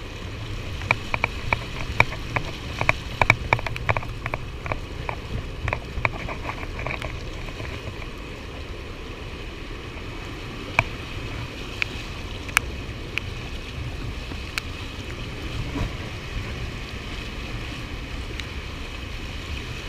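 Steady rush of wind and river water below a dam. Over it, a quick run of sharp clicks for the first several seconds, then a few scattered single clicks.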